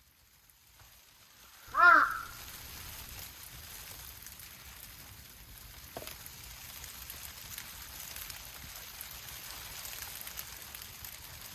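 A single crow caw about two seconds in, followed by the steady hiss of falling rain with one small click near the middle.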